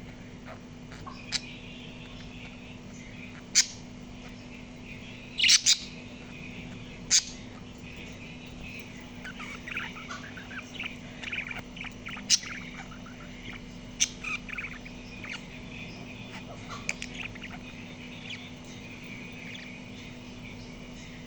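Small pet parrot chirping and chattering softly, broken by several short, sharp, loud calls, over a steady low hum.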